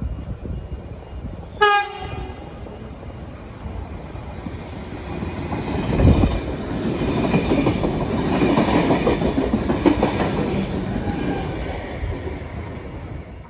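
Sydney Trains double-deck electric train sounding one short horn blast about two seconds in, then running past the platform with a rumble and wheel clatter that builds to its loudest about six seconds in and fades near the end.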